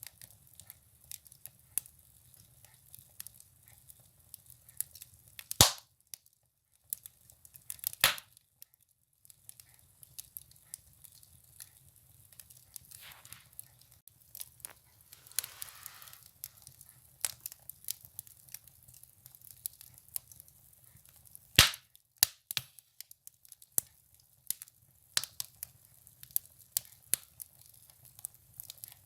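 Firewood burning in a wood stove, crackling with many small sharp pops and a few much louder snaps, two in the first third and one about three quarters through. A soft hiss rises briefly around the middle.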